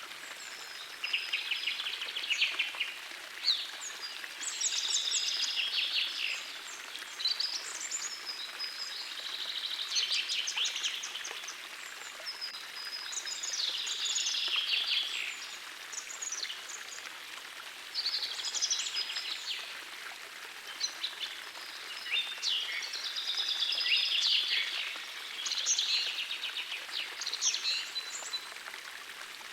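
Songbirds singing short, high, trilling phrases every few seconds over the steady rush of a gentle forest stream.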